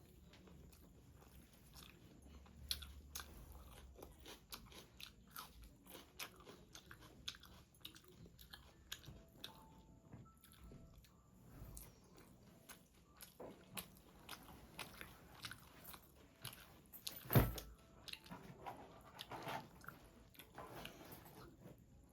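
Close-miked chewing and crunching with wet mouth clicks as a person eats rice, chicken curry and egg poach. One louder thump comes about three-quarters of the way through.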